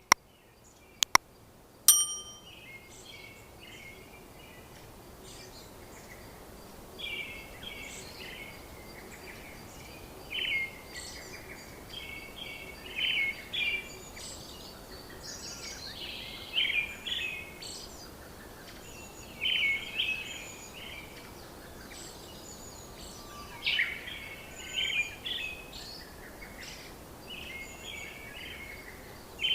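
Songbirds singing and calling in short repeated phrases over a steady faint hiss. Three sharp clicks come in the first two seconds.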